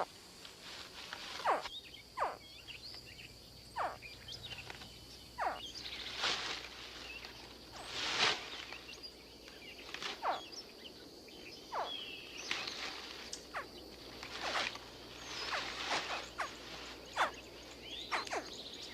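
Hatching American alligator young calling from the nest: a chorus of short, high cries, each dropping in pitch, coming irregularly about once a second over a steady high buzz. These hatchling cries are the signal that brings the mother alligator to the nest to help her young out.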